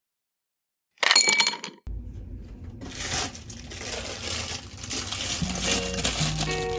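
A sharp clink of glass or ceramic kitchenware with a short bright ring about a second in, followed by a low steady hum and faint handling noises. Steady musical notes begin near the end.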